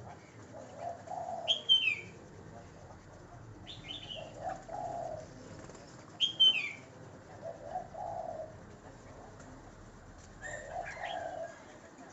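A dove cooing a short low phrase four times, about every three and a half seconds, with sharp high falling chirps from a smaller bird between and over the coos.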